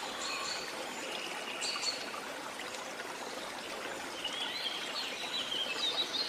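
Steady rush of a waterfall, with birds chirping over it, the chirps busier in the last couple of seconds.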